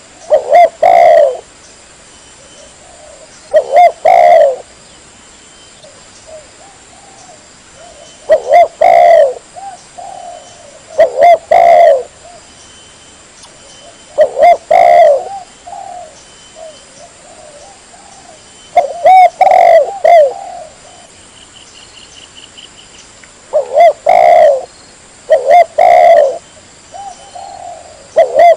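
Spotted dove (tekukur) cooing: a short, clear phrase of low coos about every three to four seconds, with softer coos in the gaps.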